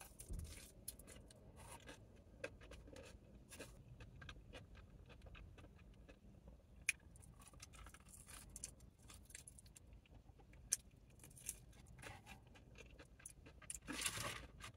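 Quiet, close chewing of a sticky sauce-coated chicken wing: wet mouth smacks and small sharp clicks. Near the end, a louder rustle of paper as a hand reaches into the paper-lined takeout box.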